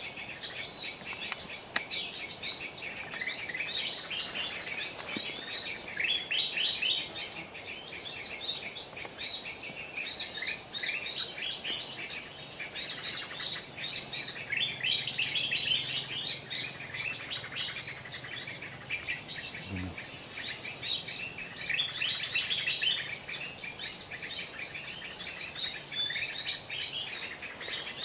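Small songbirds chirping and twittering without pause: a dense chorus of quick, high, repeated notes.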